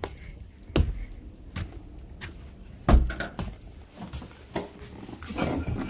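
A scattered series of knocks and thumps, about half a dozen, the loudest about three seconds in.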